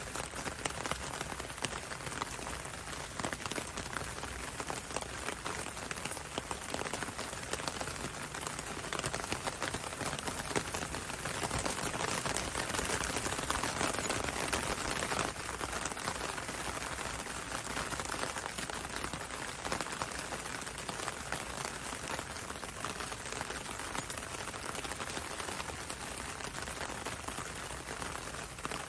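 Steady gentle rain falling, a dense patter of drops on a window and a road, swelling slightly midway.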